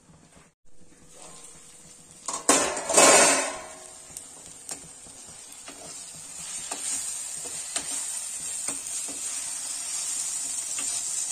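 A loud metal clatter about two and a half seconds in as the steel plate lid comes off the pan, then potatoes and fenugreek leaves sizzling in a non-stick pan while a wooden spatula stirs them, with light taps and scrapes against the pan.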